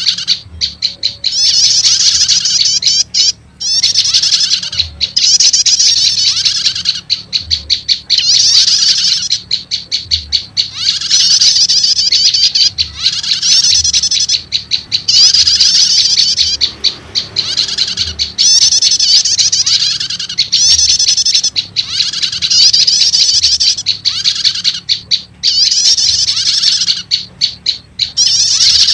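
Looped bird-lure recording of prenjak lumut calls mixed with prenjak 'starter' calls: loud, rapid, high-pitched trilled chattering phrases repeating about every one and a half to two seconds.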